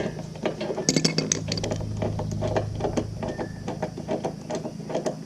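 Metal sockets and tools clinking and clattering as they are sorted through while looking for a spark plug socket, with a dense cluster of clinks about a second in, over a steady low hum.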